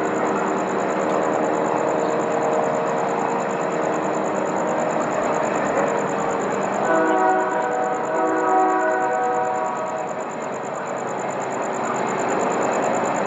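Train horn blowing one held chord for about three seconds, midway through, over the steady running noise of a passing train.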